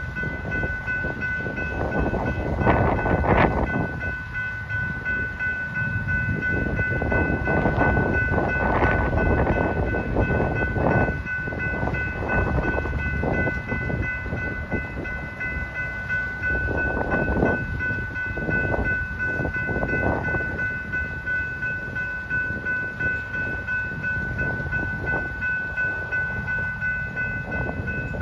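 Freight train of tank cars rolling past: a steady rumble of steel wheels on rail with irregular clanks and knocks, and a steady high ringing tone throughout.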